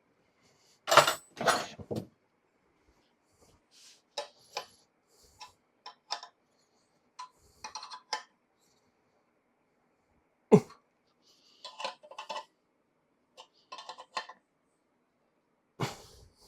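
Scattered metal clinks and knocks from steel clamping hardware and hand tools being fitted on a machine table, with two louder knocks about a second in and one sharp knock past the middle.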